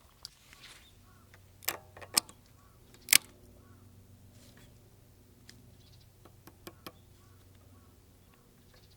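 Small parts and hand tools clicking and clinking against a work surface during repair work: a handful of sharp knocks, the loudest about three seconds in, over a faint steady low hum.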